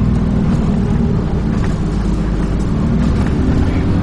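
Dennis Trident 2 double-decker bus engine running steadily, a low drone with road and body noise, heard from inside the passenger cabin.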